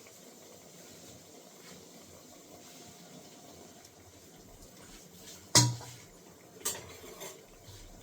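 Bread-and-potato snacks sizzling faintly in a pan on low heat, with one sharp knock of a spatula against the pan a little past halfway and two lighter knocks soon after as the pieces are turned.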